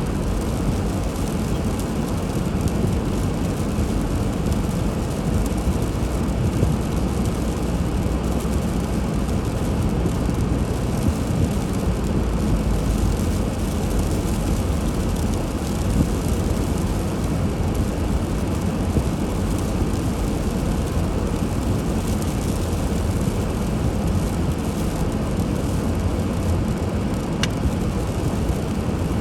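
Car driving through a snowstorm: a steady rumble of engine and tyre noise with no change throughout.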